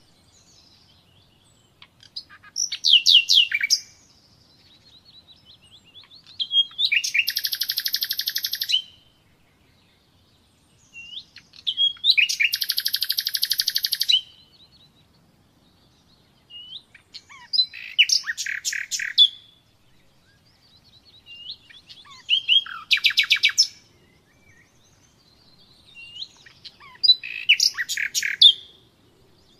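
Common nightingale singing: six separate phrases of rapid repeated notes and dense trills, each two to three seconds long, with pauses of about two seconds between them.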